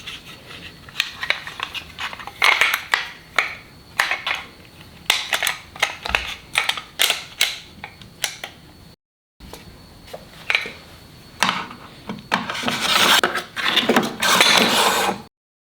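Irregular clicks, knocks and scraping of wood and tools being handled on a workbench, busiest near the end. The sound drops out completely twice, briefly.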